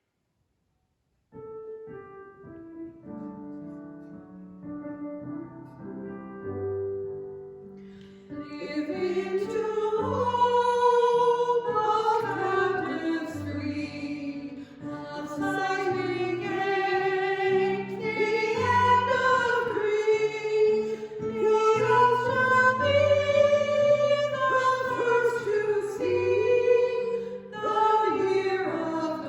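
A hymn being sung. After a second of silence, a keyboard plays an introduction of held notes, and singing voices come in about eight seconds in, louder than the introduction.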